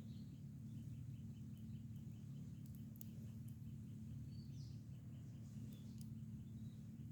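Quiet outdoor ambience: a few short bird chirps and a faint high ticking, about five a second, over a steady low hum, with a few faint clicks.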